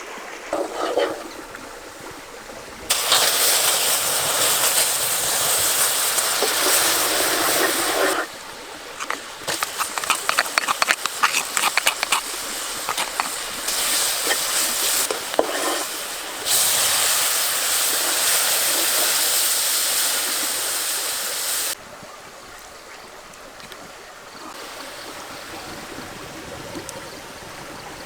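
Water splashing and pouring in loud stretches that start and stop abruptly, with quick splashy clatter between them, over a steady running stream.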